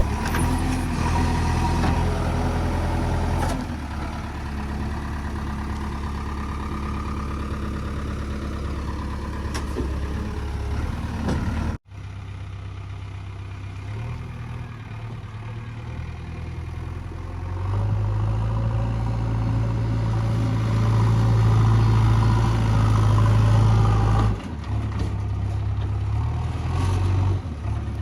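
Heavy diesel engines of farm machinery running steadily, with a sudden drop-out of the sound about twelve seconds in. From about eighteen seconds in the engine note grows louder and stays up for several seconds, as under load, then falls back near the end.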